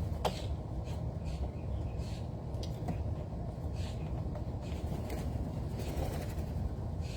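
Wild birds calling over a steady low background rumble: one short call falling in pitch just after the start, then scattered brief high chirps.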